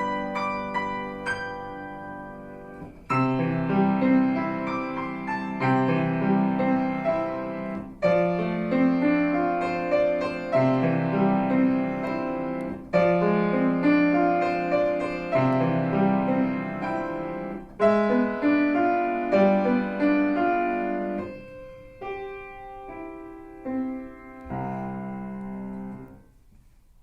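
Solo piano played by a young child: a slow piece in phrases that each open with a firm chord about every five seconds, then grow softer and end with final notes dying away near the end.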